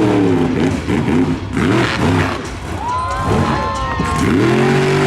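Monster truck engine revving hard in repeated surges, its pitch sweeping up and falling back, with a high rise near the end.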